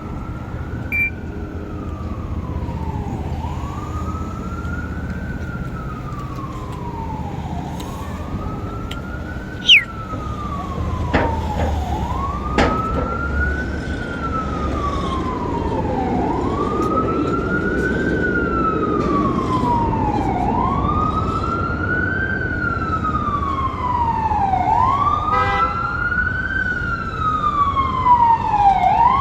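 Emergency vehicle siren on a slow wail, rising and falling in pitch about every four and a half seconds, getting louder over the last third as it approaches, over low street traffic rumble.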